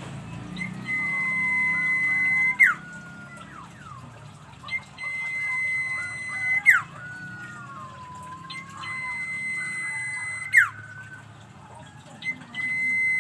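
Sirtu bird singing its long drawn-out 'ngalun' song: a steady high whistle held for a second or two that ends in a sharp downward flick, repeated about every four seconds, with quieter wavering notes in between.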